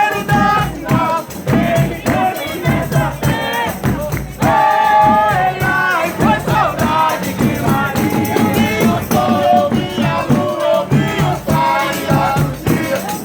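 Folia de Reis group singing in several voices with instrumental and percussion accompaniment.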